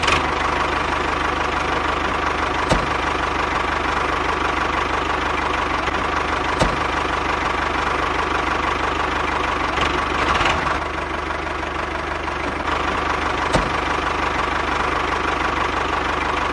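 A motor running steadily with a fine chugging rhythm underneath and a few sharp clicks.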